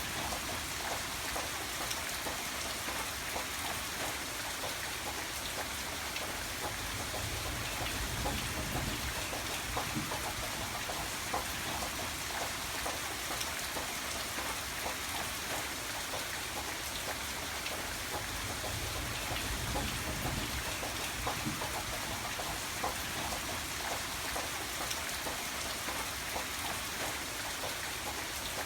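Steady rain falling, with many individual drops ticking on a surface and a low rumble underneath that swells now and then.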